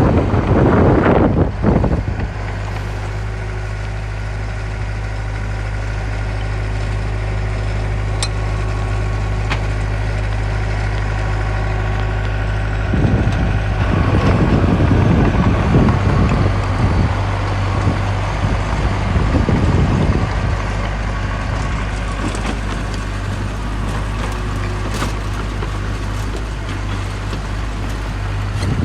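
Diesel engine of heavy construction equipment running steadily at a low, even hum, with louder, rougher stretches at the start and again from about 13 to 20 seconds in.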